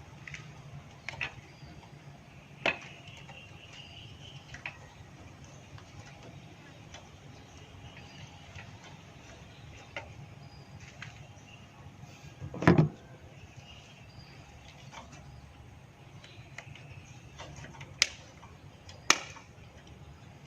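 Scattered clicks and knocks from hand tools and small engine parts being handled during repair work, with a louder knock a little past halfway and two sharp clicks near the end, over a steady low hum.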